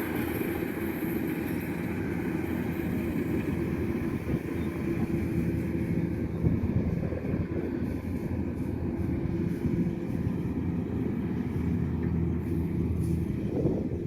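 Kubota DC-105X combine harvester's diesel engine and machinery running steadily, a constant hum with mechanical noise over it.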